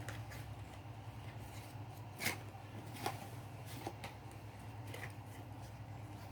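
Paper being handled for a papercraft exploding box: scattered small snips and rustles, the sharpest about two seconds in, over a low steady hum.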